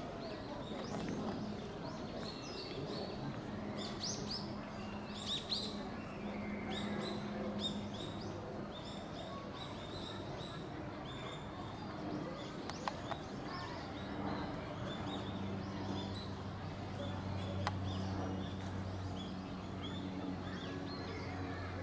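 Small birds chirping in many short, high calls over a steady low hum that grows stronger about two-thirds of the way through.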